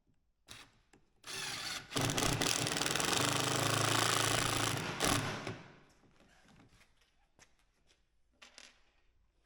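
Cordless impact driver hammering a screw into dense white oak: a short spin, then about three and a half seconds of steady rattling drive before it stops and winds down.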